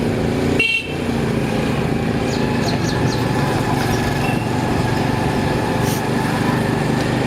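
Motorcycle engine running steadily while riding through street traffic, with a few short high beeps about two and a half to three seconds in.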